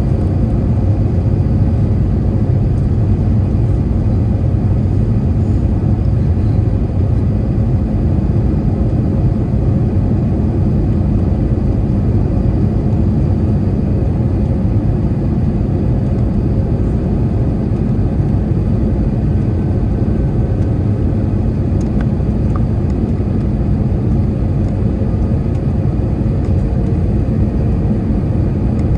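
Airbus A321 cabin noise in flight: a steady, loud, low rumble of engines and airflow, with a faint steady high whine over it.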